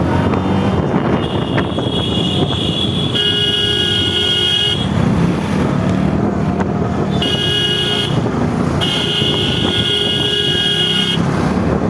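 A vehicle horn sounding three times (about a second and a half, then a short toot, then about two and a half seconds) over the steady engine and wind noise of a motorcycle riding at speed.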